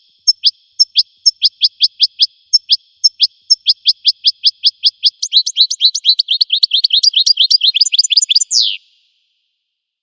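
Songbird singing a long run of short notes that fall in pitch, about three a second, speeding up into a fast trill about five seconds in and ending with one longer falling note.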